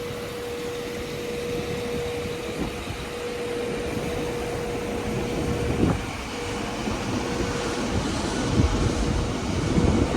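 A train standing at the platform with its engines running, giving a steady rumble with a constant hum. There is a knock about six seconds in, and the rumble grows louder near the end.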